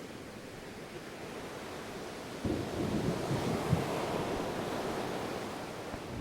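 Ocean surf washing steadily; about two and a half seconds in, a wave breaks with a sudden low rush that swells into a broad wash and then slowly eases.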